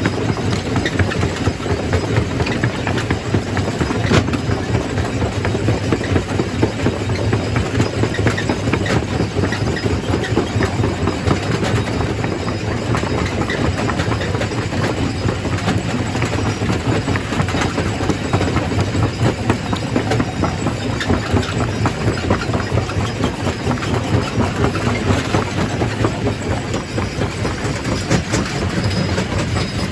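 Quarry primary rock crusher running with stone going through it: a steady low drone under a dense, continuous clatter of rock knocking and grinding, with no pauses.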